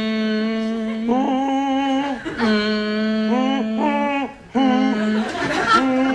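A voice holding a series of long sung or hummed notes, stepping back and forth between two neighbouring pitches, with a short break about four and a half seconds in.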